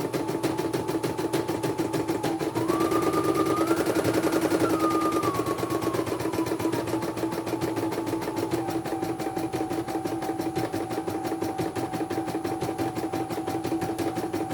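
Computerised embroidery machine stitching: the needle runs in a fast, even rhythm under a motor whine that steps up in pitch about two and a half seconds in, then steps back down and holds steady.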